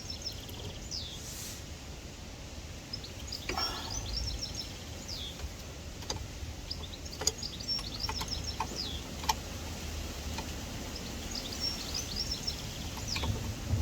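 Small birds chirping throughout over a low steady rumble, with a few sharp clicks and knocks from a socket, extension and breaker bar as a suspension bolt is cracked loose.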